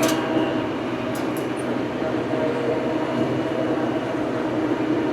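Farm tractor engine running steadily, a constant even drone.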